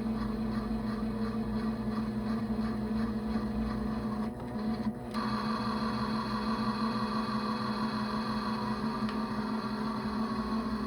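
Toy washing machine's small electric drum motor running with a steady hum. It stops briefly about four seconds in, then starts again with an added higher whine.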